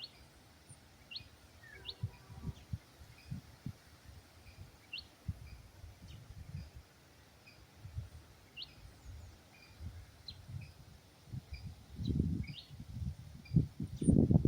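Forest birds giving short, quick rising chirps, one every second or two. Low thumps and rumbles come and go, and are loudest near the end.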